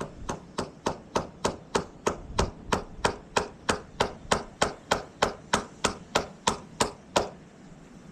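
Hammer striking in a steady rhythm, about three blows a second, some twenty in a row, stopping about seven seconds in.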